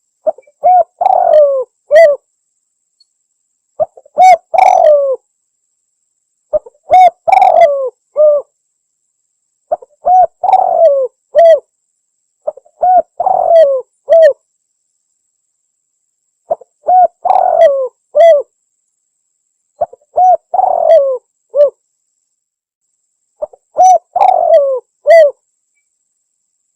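Spotted dove (tekukur) cooing: eight short phrases of several coos each, coming about every three seconds, with a longer pause about two-thirds of the way through. It is a lure call for attracting wild doves.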